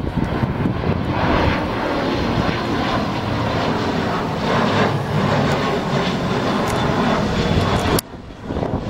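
Arriving airliner's engines running loudly as it passes on its landing approach, a dense steady noise that cuts off abruptly about eight seconds in.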